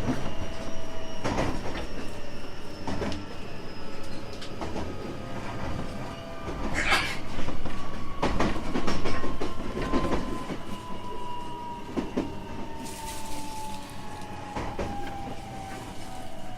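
JR West 225 series 5000 subseries electric train running, its Toyo Denki IGBT inverter and traction motors whining in a thin tone that slowly falls in pitch, over wheel-on-rail noise with scattered knocks from rail joints.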